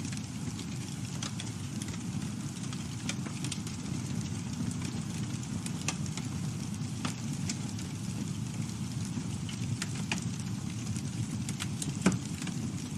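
Campfire burning with a steady low rush of flames and scattered sharp crackles and pops from the burning wood, one louder pop near the end.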